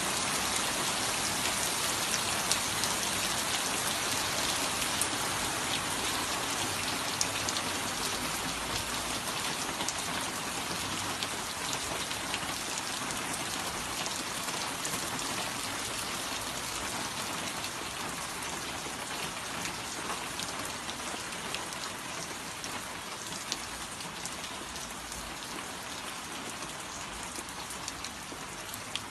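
Steady rain falling, a constant hiss with many separate drops striking close by, slowly getting quieter over the stretch.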